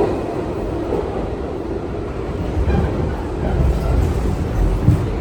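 R62A subway train running on the rails: a steady rumble that swells lower and louder from about halfway through, with a single knock near the end.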